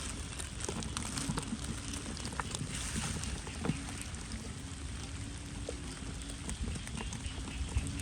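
Steady rain falling, with many scattered ticks of individual drops striking nearby surfaces.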